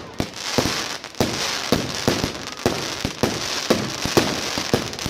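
Fireworks going off: a rapid, irregular run of sharp bangs and crackles over a continuous hiss.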